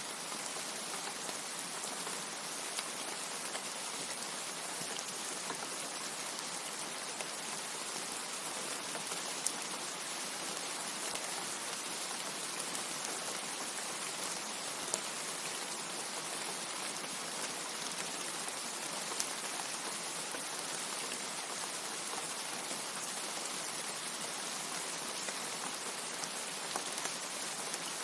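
Steady heavy rain, a dense even hiss with scattered sharper drop ticks.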